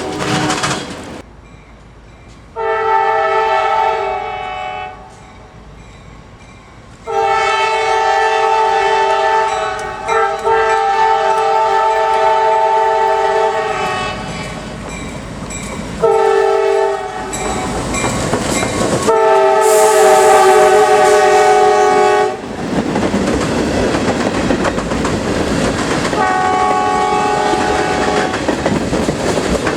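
Freight locomotive's multi-note air horn sounding long, long, short, long, the standard signal for a grade crossing. The train's wheels rumble and clatter on the rails throughout. A fainter horn sounds again near the end.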